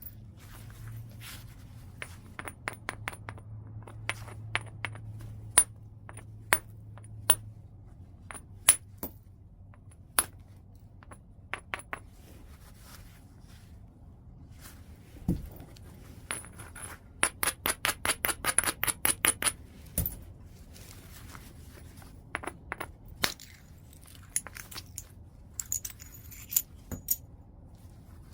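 Knapping strikes on white chert: sharp, ringing stone clicks at irregular intervals, with a quick, even run of about twenty lighter taps in the middle and two duller thumps.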